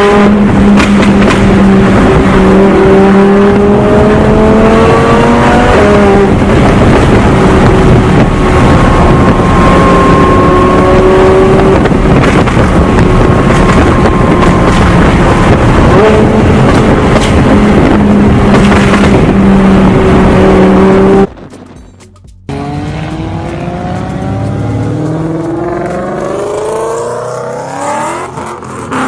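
A car engine with a loud exhaust, held at high revs for about twenty seconds with small rises and dips in pitch. It cuts off suddenly, and then another car engine revs up several times in rising sweeps.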